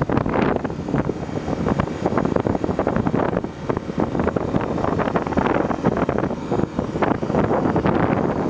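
Wind buffeting hard on the microphone of a camera carried on a moving Honda XR250 Tornado motorcycle, in rapid irregular gusts, with engine and road noise underneath.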